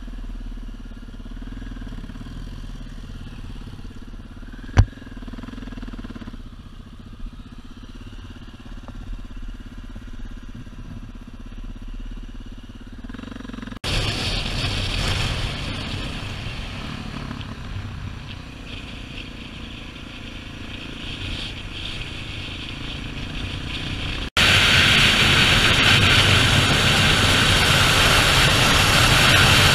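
Motorcycles running in a few cut-together clips: a quieter steady stretch with one sharp knock about five seconds in, then louder riding sound, and after about twenty-four seconds a much louder, steady rush of engine and riding noise.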